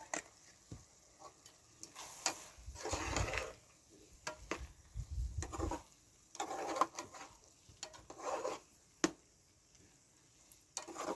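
Handling of cooking utensils and pots: scattered clicks and knocks with several short scraping sounds.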